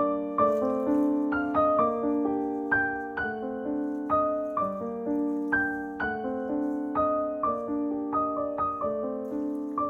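Background music: solo piano playing a gentle melody, notes struck in a steady, even rhythm.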